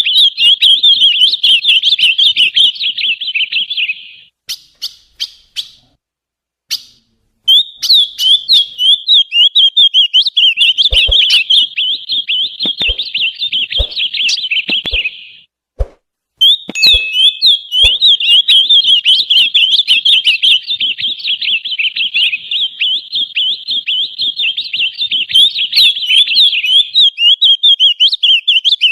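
Ultramarine grosbeak (azulão) singing a fast, continuous warbling song, a warm-up (esquenta) recording. The song comes in three long runs, broken by short pauses about four seconds in and about fifteen seconds in, with a few faint knocks in the middle.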